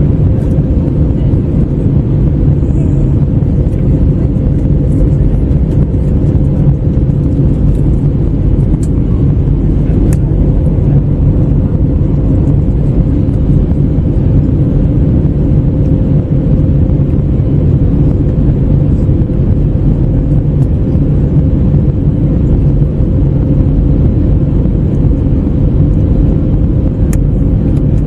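Airbus A321neo cabin noise in flight: a steady, loud low rumble of engine drone and airflow, with a steady hum tone running through it.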